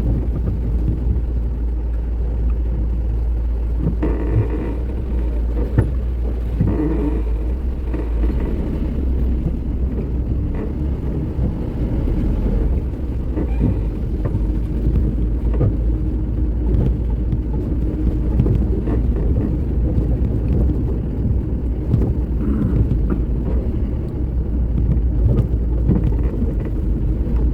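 A vehicle driving over a rough, rain-damaged road: a steady low engine and road rumble with frequent short knocks and jolts.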